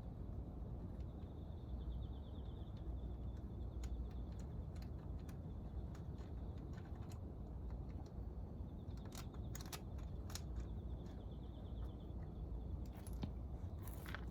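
Scattered light metallic clicks and clinks of tools and parts being handled during engine disassembly, bunched together about nine seconds in and again near the end, over a steady low rumble. A faint high pulsing trill comes and goes twice.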